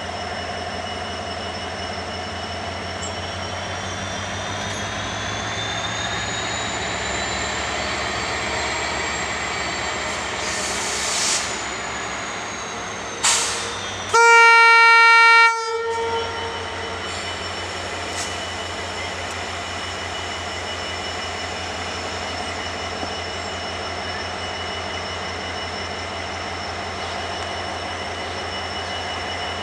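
Diesel-hauled express train running steadily on the rails, with one loud horn blast of about a second and a half about halfway through. Two short sharp knocks come just before the horn.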